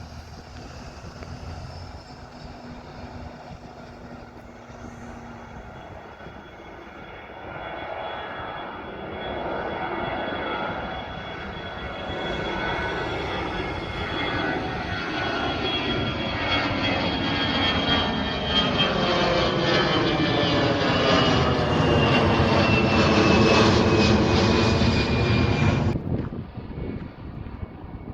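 Lufthansa jet airliner's engines at takeoff power, building over about twenty seconds to a loud rushing noise with a high fan whine that slowly falls in pitch. The sound cuts off suddenly near the end.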